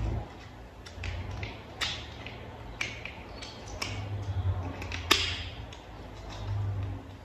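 Small plastic toy parts being handled and fitted together: irregular light clicks and taps, the sharpest about five seconds in, over a low hum that swells and fades.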